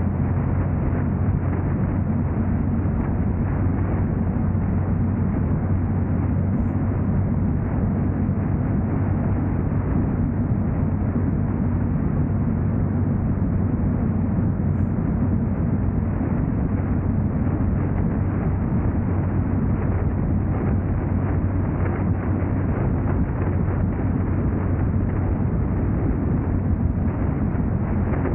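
Steady low rumble of a car driving at an even pace: engine and road noise that holds level without any break.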